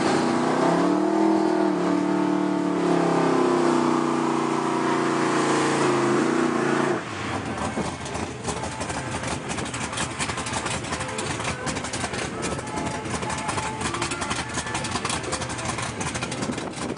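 1994 Chevrolet Camaro engine revving and held up at speed for several seconds, its pitch rising and dipping. About seven seconds in the rev cuts off suddenly, leaving a quieter, rough, crackling running sound.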